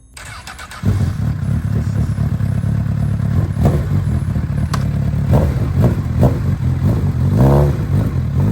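Superbike engine starting up about a second in and running, with a brief rev near the end.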